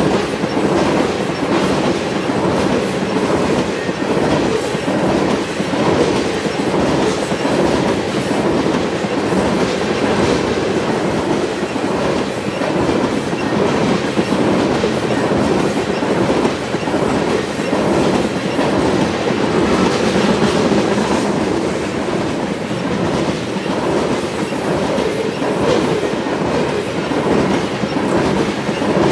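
Tank cars of a freight ethanol train rolling past at steady speed: continuous steel-wheel and rail noise, with no horn and no change in level.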